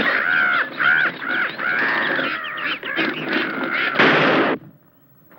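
A bird squawking loudly in a run of quick, arching calls, then a loud burst of noise about four seconds in that cuts off sharply.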